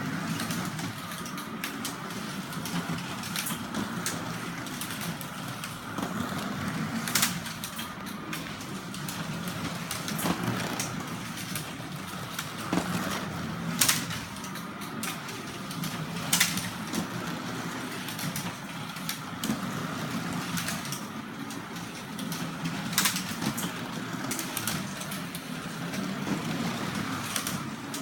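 Carrera slot cars running around the track, their small electric motors giving a steady whine over a low hum. Several sharp clicks or knocks come at irregular moments along the way.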